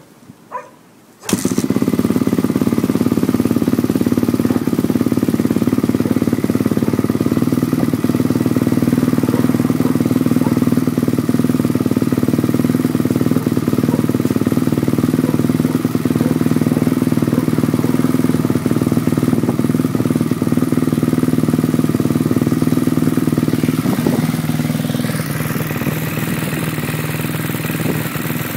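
2006 KTM SMR450's single-cylinder four-stroke engine, through an Akrapovic exhaust, fires on a cold start about a second in and then idles steadily. Near the end the idle drops to a lower pitch and settles.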